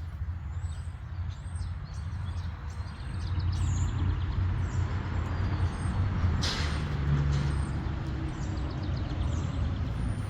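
Small birds chirping over and over over a steady low rumble that grows louder a few seconds in, with a brief rushing noise about six seconds in.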